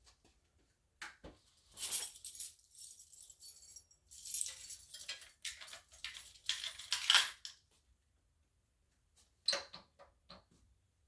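Light metallic jingling and clattering in irregular bursts for several seconds, then a few sharp clicks near the end; no engine is running.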